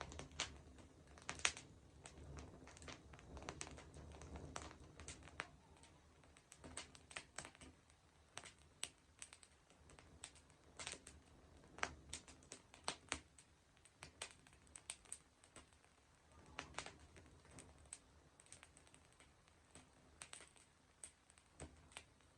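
Wood fire crackling softly: irregular sharp pops and snaps, a few each second.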